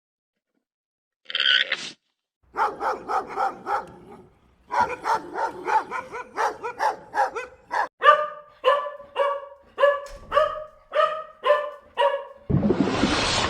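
A dog barking in a long, rapid series of short barks, quickest at first and slowing to about two a second, after a single bark near the start.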